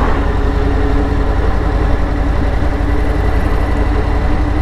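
Steady engine and road noise inside a moving vehicle's cabin, a low rumble with a steady hum over it.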